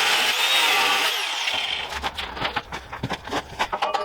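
Angle grinder grinding a steel part down to thickness, a loud high whine that winds down in pitch about two seconds in, followed by light knocks and clinks as the metal piece is handled.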